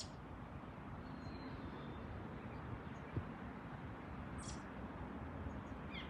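Birds calling in the distance: a short high chirp sweeping downward at the start and again about four and a half seconds in, with a few faint thin whistles between, over a steady low background rush.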